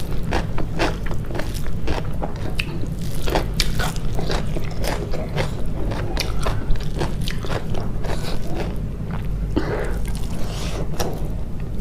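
Close-miked eating: chewing and crunching food, with many sharp irregular crunches several times a second over a steady low hum.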